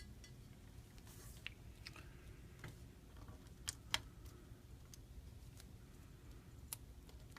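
Faint, scattered clicks and light taps of small repair tools on an iPhone 5c's parts, the two sharpest close together about four seconds in.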